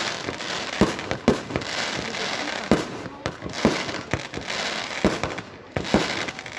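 Fireworks display: aerial shells bursting in seven or eight sharp bangs at uneven intervals, with a steady rush of noise between them.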